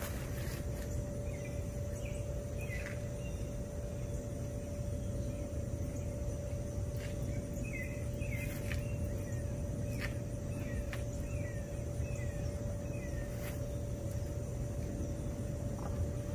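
A bird chirping in two runs of short, falling chirps, a brief run about a second in and a longer one from about seven seconds, over a low background rumble and a constant mid-pitched hum.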